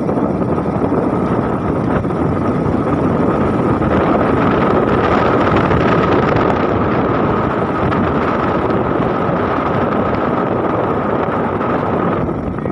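A vehicle running steadily while driving, with road and wind noise on the microphone and a thin steady whine over it.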